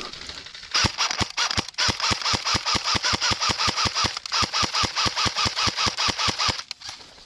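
Airsoft electric gun firing BBs in rapid strings, about six shots a second, each shot a sharp mechanical clack over the whir of its gearbox motor, with two brief pauses.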